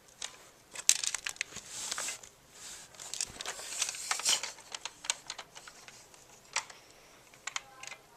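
Plastic Nerf blaster parts being handled and fitted together: irregular clicks, knocks and rattles, busiest about a second in and again around four seconds in, with a few single clicks later.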